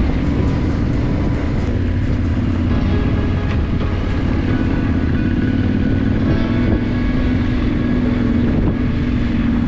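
Motorcycle engine running steadily while being ridden, its pitch holding nearly level with a slight waver.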